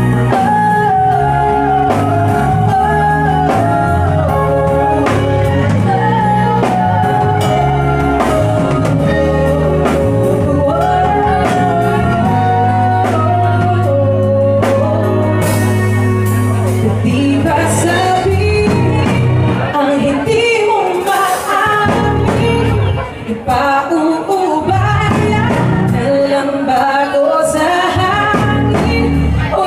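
Live band performing a pop song: a singer over electric guitar, bass and drums.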